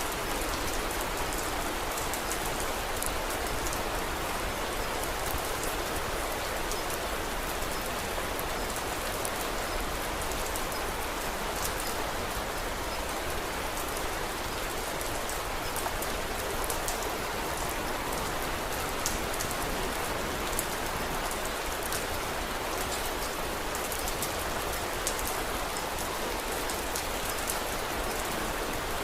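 Steady rain falling, with many small sharp clicks and ticks scattered through it.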